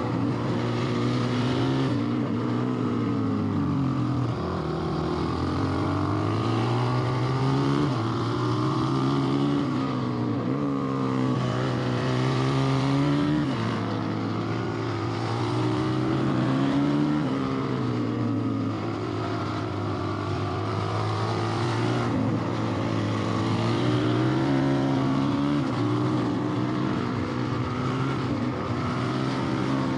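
Motorbike engine being ridden, its pitch rising and falling again and again as the throttle is opened and backed off.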